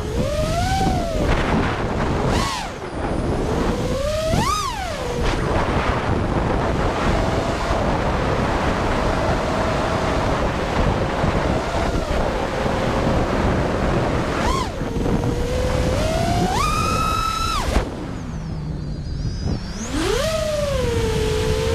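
FPV quadcopter's motors whining, the pitch rising and falling sharply as the throttle is punched and eased, with gusting wind noise underneath.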